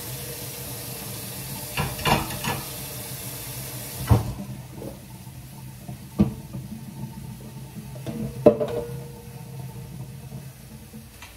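Turkey burgers sizzling in a frying pan, with water running into the sink for the first four seconds or so. Sharp knocks of dishes being handled come several times, the loudest about eight and a half seconds in.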